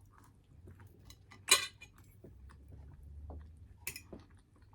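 Eating utensil clinking against a plate: two sharp clinks, the louder about a second and a half in and another near four seconds, with fainter small taps between.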